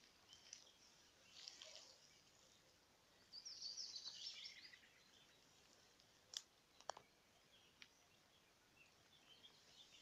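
Faint songbirds singing in quiet open country, with one louder song phrase that runs downward in pitch about three seconds in. Two sharp clicks come a little past the middle.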